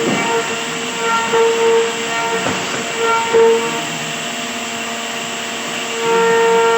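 Electric woodworking power tool running with a steady whine over a hiss, swelling and easing in strength, with a couple of brief knocks.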